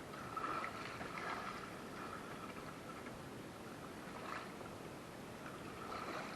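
River water washing around a kayak: a steady wash with a few short splashes, about a second in, about four seconds in and near the end.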